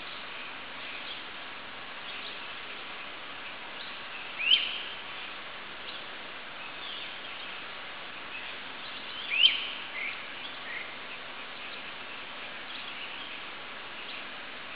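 Two loud, short rising bird chirps about five seconds apart, followed by a few fainter chirps, over a steady background hiss of woodland ambience.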